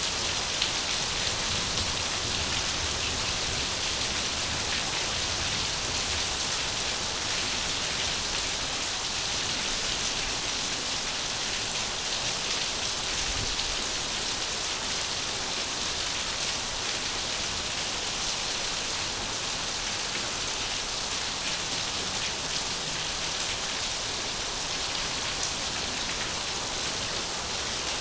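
Steady rain falling: an even hiss of dense patter that does not change.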